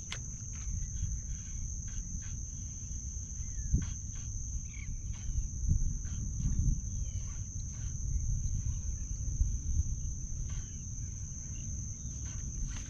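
Low wind rumble on the microphone with a constant thin high-pitched tone, scattered light clicks and a few faint short chirps.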